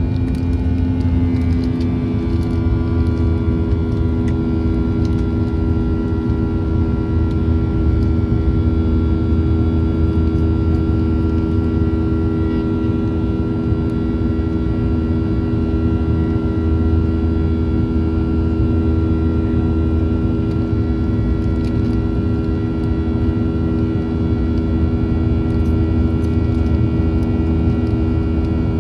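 Cabin noise of a Boeing 737-800 with its CFM56-7B jet engines running: a steady low rumble with several steady engine tones, which dip slightly about two seconds in and then hold.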